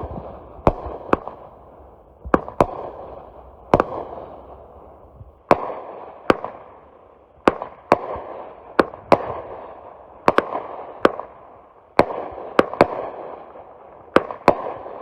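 TNT 'Jumbo Shrimp' 16-shot consumer fireworks cake firing: sharp bangs of shells launching and bursting, one or two a second, with crackling between them.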